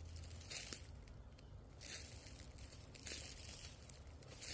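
Irregular rustling and crunching, a few short bursts of dry crackling noise with quieter gaps between them.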